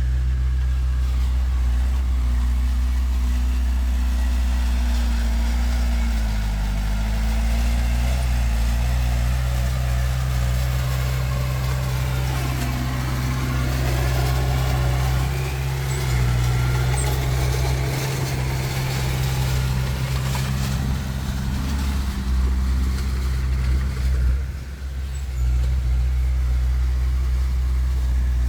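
Diesel engines of earthmoving machinery running steadily with a deep, even drone. The engine note shifts a little in pitch as the load changes, and dips briefly near the end.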